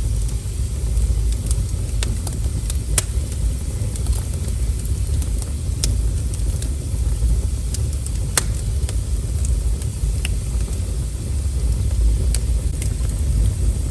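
Wood fire burning: a steady low rumble of the flames with scattered sharp crackles and pops every second or few, the loudest pop a little past eight seconds in.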